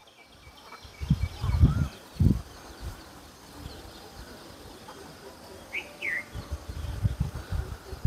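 Faint small-bird chirps, with two short falling calls about six seconds in, over outdoor background noise. Low thumps come in clusters a second or two in and again near the end, and these are the loudest sounds.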